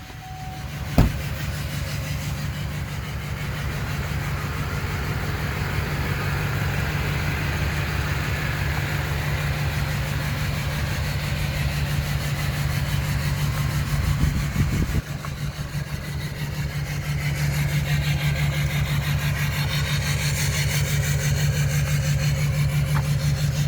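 Duramax LMM 6.6-litre V8 turbo-diesel running steadily at idle, with a sharp click about a second in and a brief dip in level about two-thirds of the way through. The engine is running with blowby and a misfire on cylinder 7.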